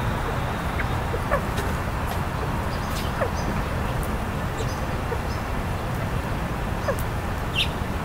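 Scattered short, faint bird chirps and calls over a steady low background rumble, with one brighter, higher call about three-quarters of the way through.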